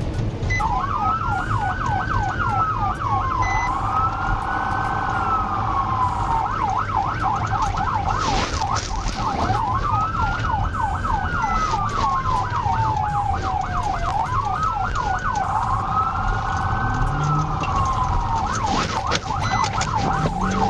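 Police car siren during a pursuit, switching back and forth between a fast yelp of about four sweeps a second and a slower rising-and-falling wail, over a steady low rumble.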